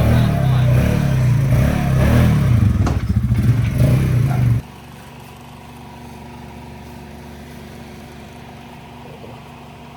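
Off-road vehicle engine running loud and close, its pitch rising and falling as the throttle works. A little over four and a half seconds in it cuts off abruptly to a much quieter, steady engine hum.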